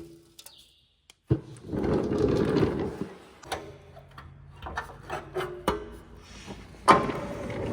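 Parts and hand tools being handled under a truck during skid plate removal: scraping and rubbing about a second in and again near the end, with scattered clicks and knocks between.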